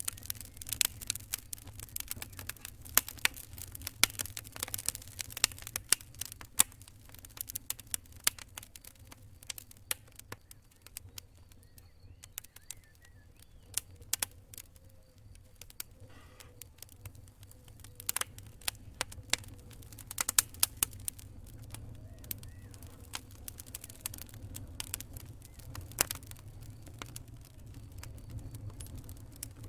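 Campfire crackling: many sharp, irregular snaps over a low steady rumble. The snaps come thickest in the first several seconds and again about two-thirds through, and sparser in between.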